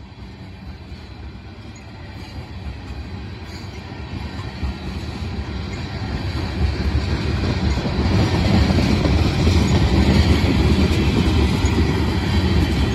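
Freight train of steel coal cars rolling past, the wheels rumbling and rattling on the rails, growing steadily louder through the first two-thirds and then holding.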